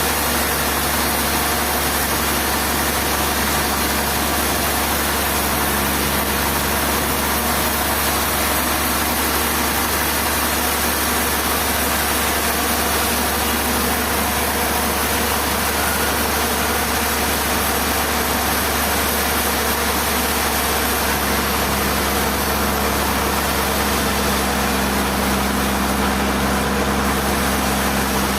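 Engine-driven machinery running steadily at a constant speed, a dense unbroken mechanical noise over a low hum.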